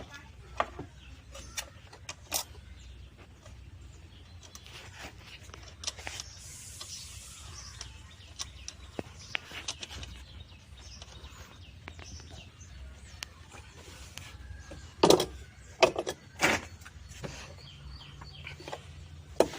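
Scattered clicks and knocks of metal parts and hand tools being handled while a washing machine motor is fitted to the drum assembly, with a cluster of loud knocks about 15 seconds in.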